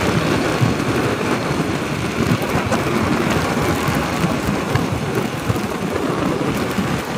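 Wind buffeting the microphone on a moving motorcycle, a steady loud rumble mixed with engine and road noise.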